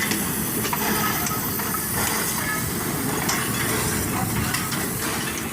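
Railway rolling stock running, with a steady rumble and scattered light metallic clinks.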